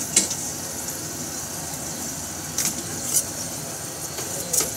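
Hot cooking oil in a frying pan sizzling with a steady hiss, with a sharp crackle four times.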